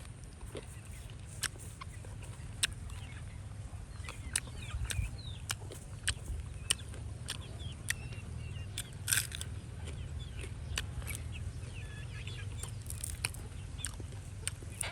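Chickens making short chirping, clucking calls, with sharp clicks scattered throughout and a steady low hum underneath.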